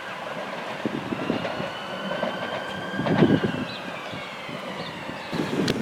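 Electric train passing on the line below. Its high electric motor whine rises and then falls in pitch, over a rumble with a few sharp clacks from the wheels, the loudest about three seconds in.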